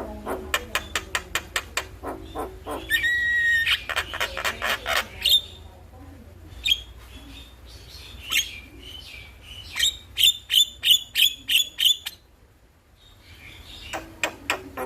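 Javan myna (jalak kebo) calling: rapid runs of sharp, clicking chatter notes, several a second, with a brief whistle about three seconds in. A louder burst of chatter comes around ten seconds, then a short lull, then the fast notes start again near the end.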